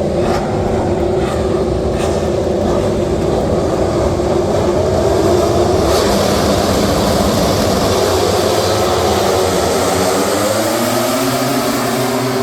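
Several MotoGP racing motorcycles' four-cylinder four-stroke engines running loudly together, their pitch rising in a climbing whine near the end as the bikes accelerate.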